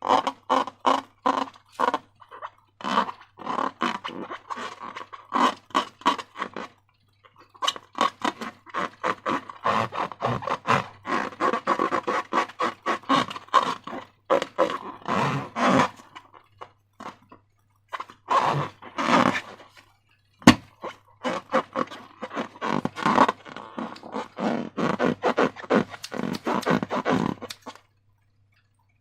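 Slime being worked by hand with transparent balloons: quick runs of short wet squishing strokes, several a second, broken by brief pauses, with one sharp click about twenty seconds in.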